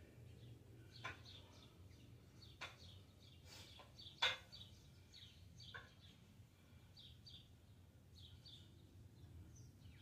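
Birds chirping: short, high chirps repeating throughout. A few sharp clicks come through as well, the loudest about four seconds in, over a steady low hum.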